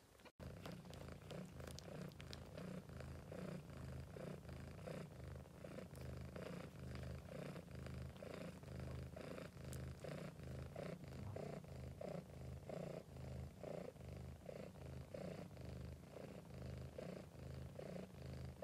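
British Shorthair cat purring steadily, the purr swelling and easing a couple of times a second with its breathing.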